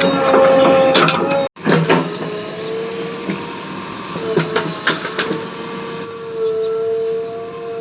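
A small electric motor whining steadily with clicks and knocks. The sound breaks off abruptly about a second and a half in and resumes at a slightly lower pitch.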